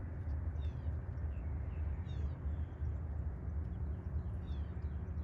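Small birds chirping in short, falling notes several times, over a steady low rumble.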